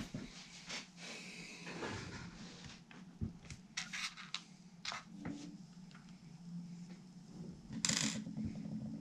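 Hand work during a guitar assembly: scattered small clicks, taps and rubbing of tools and parts, with a louder scraping rustle about eight seconds in, over a steady low hum.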